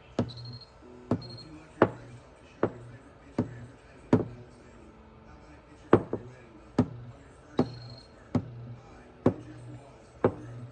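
Sharp metallic taps at an even pace, a little faster than one a second, with a short pause about halfway through: a hammer striking a knockdown tool to tap down and blend high spots in a Ford Edge door's sheet metal during paintless dent repair.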